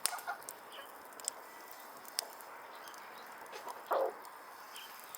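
A chicken clucks once, briefly, about four seconds in, over faint background with a few sharp ticks.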